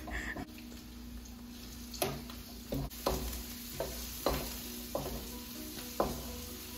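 Garlic and onions sizzling in red annatto oil in a nonstick wok while a wooden spatula stirs them. From about two seconds in, the spatula knocks against the pan several times.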